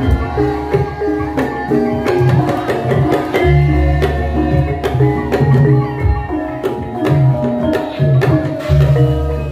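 Javanese gamelan music: hand-drum strokes over a stepped melody of struck metallophone notes, with long deep low tones coming back every few seconds.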